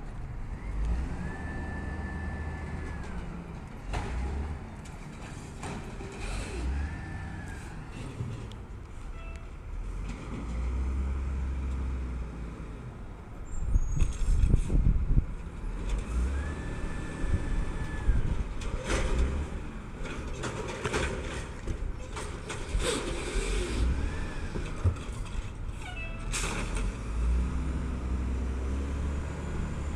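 Garbage truck working its route: the diesel engine swells in revs several times, high whines glide up, hold and glide down four times, and a cluster of loud knocks and clatter comes about halfway through.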